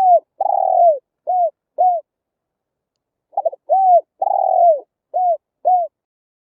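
Spotted dove cooing: two identical phrases, the second starting about three and a half seconds in. Each phrase is a quick stuttered double note, a coo, a longer drawn-out coo, then two short coos, every note dropping in pitch at its end.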